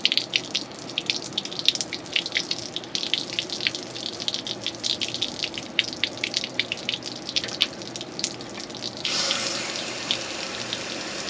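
Water splashing and spattering as it flushes out of an RV water heater tank's open drain, carrying out sediment. About nine seconds in, a steady hiss of rushing water takes over.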